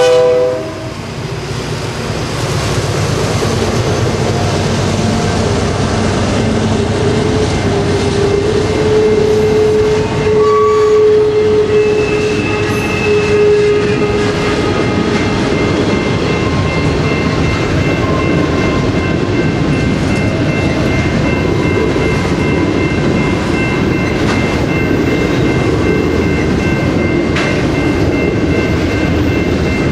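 A train horn chord cuts off right at the start, then a train rolls past with steady wheel rumble and clatter on the rails. A thin, high squealing tone joins about twelve seconds in and holds.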